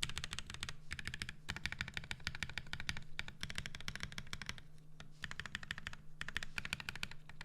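Fast typing on a custom mechanical keyboard with lubed Zykos tactile switches on an FR4 plate under Novelkeys BOW keycaps: dense, quick keystrokes in runs with short pauses between bursts, ending abruptly.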